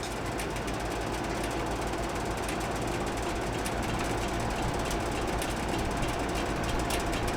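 Monitor 422 kerosene heater running with its fan blowing: a steady whirring hum, with scattered light ticks over it.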